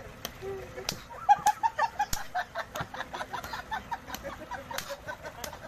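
Birds calling in a flurry of short, quick calls, busiest through the first half, with scattered sharp clicks.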